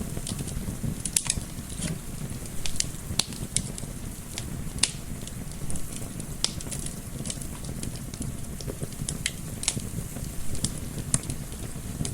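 Wood fire crackling, with irregular sharp pops and snaps several times a second over a steady low rush of gentle wind.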